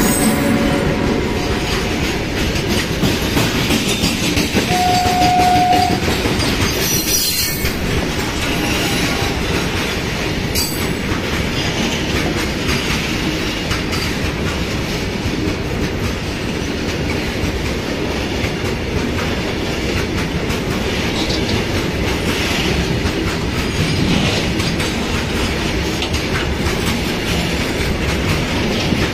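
Trains passing close at high speed: a steady rumble and clatter of wheels on the rails. A short single-note horn blast sounds about five seconds in.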